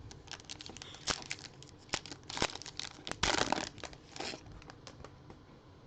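A trading card pack's wrapper crinkling and tearing as it is opened and handled, a run of irregular crackles with the loudest burst about three and a half seconds in.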